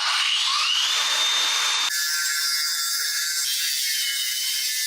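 An electric power tool switched on, its motor whining up in pitch within about a second and then running steadily at high speed. About two seconds in, the sound changes abruptly, its lower part dropping away while the high whine carries on.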